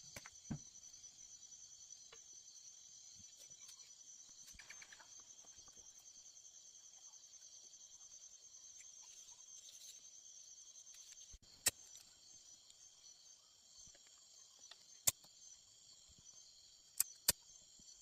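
Faint chorus of insects trilling steadily at a high pitch with a fast pulse. A few sharp clicks come in the second half.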